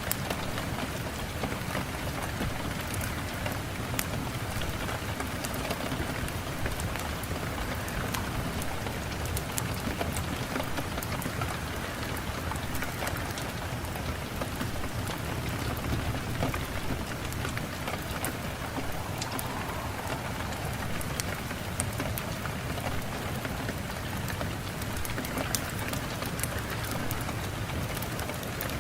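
Steady rain falling and pattering on surfaces, with many fine scattered drop ticks.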